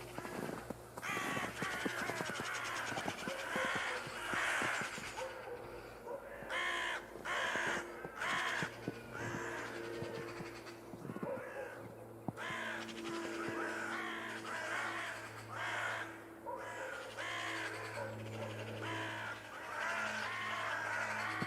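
Crows cawing over and over, many calls overlapping, as from a flock.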